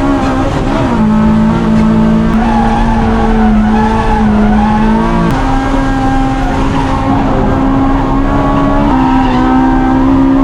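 Car engine running hard at high, fairly steady revs, with a few steps in pitch, and tyres squealing, as in on-track driving.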